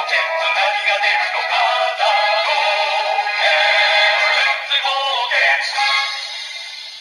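A Yo-kai Watch Dream toy watch playing a scanned Yo-kai medal's summoning song through its small speaker: a tinny, bass-less jingle with synthesized singing, fading out near the end.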